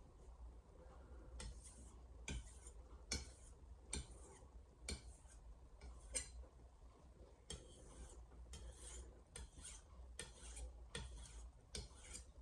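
Steel knife blade stroked across a Shapton Glass whetstone, a faint scrape repeated about once a second.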